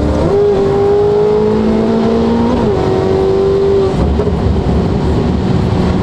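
Ferrari F8 Tributo's twin-turbo V8, fitted with a full catless exhaust, pulling hard under acceleration. The engine note climbs in pitch and breaks at gear changes about a third of a second in and again about two and a half seconds in. It holds steady until about four seconds in, then gives way to a rough rumble of road and wind noise.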